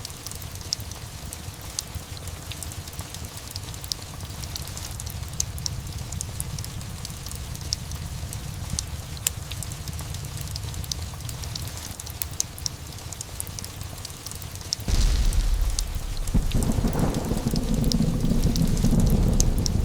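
Steady rain with scattered sharp ticks, then a sudden loud thunderclap about 15 seconds in that rolls on as a low rumble.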